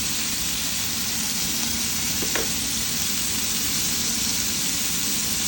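Chicken liver frying in oil with onion, garlic and pepper: a steady, even sizzle, with one brief sharp sound a little over two seconds in.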